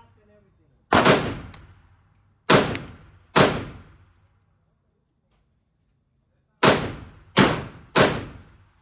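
Six single gunshots, with a gap of about three seconds between the third and fourth, each followed by a short echoing decay in the hard-walled bays of an indoor shooting range.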